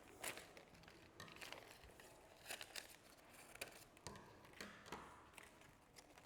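Scissors cutting paper: a series of faint, irregular snips with light paper rustling between them.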